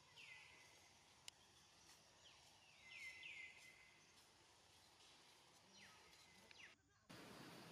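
Faint bird calls: a handful of short chirps, each sliding down in pitch and levelling off, over quiet background. Near the end the sound cuts out briefly and comes back as a louder hiss.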